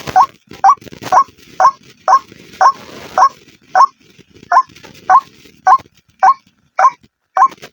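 White-breasted waterhen calling: a short rising note repeated evenly about twice a second, with one slightly longer pause about four seconds in.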